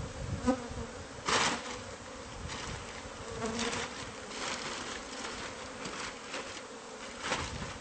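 Honeybees from an exposed wall hive buzzing steadily, as a swarm, during comb removal. A brief louder rustle comes about a second in and another near the end.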